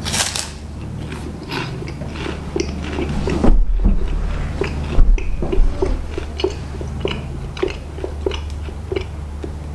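A person biting into and chewing a crunchy plain rice cracker spread with ghost chilli peanut butter, with many short crackling crunches. A steady low hum runs underneath.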